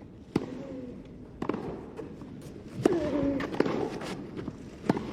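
Tennis rally: a ball struck by rackets with sharp pops about four times, a second or two apart. Short voiced grunts follow some of the shots.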